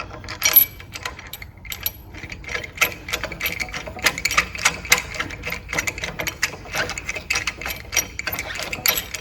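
Quick, irregular light metallic clicks and taps of screws and spacers being handled and screwed onto the top plate of a coil spring compressor. The clicking grows denser and more rapid after the first couple of seconds.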